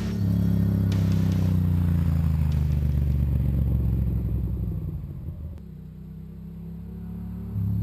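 1997 Ducati Monster 750's air-cooled V-twin exhaling through a Danmoto carbon fibre slip-on exhaust. It runs strong, then its revs fall slowly as the throttle closes and it goes quieter about five seconds in, before picking up sharply again near the end.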